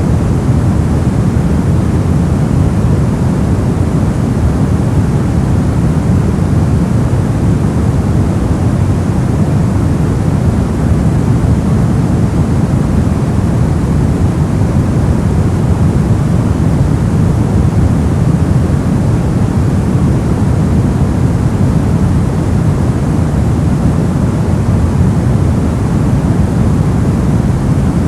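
Steady, unchanging white noise used as a sleep and masking sound. It has a deep, rushing character, heavier in the low range than in the hiss.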